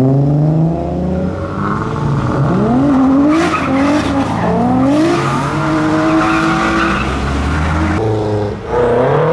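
Toyota Chaser engine revving hard as the car pulls away, its pitch climbing and dropping several times through gear changes, with tyres squealing. Near the end a second engine note cuts in.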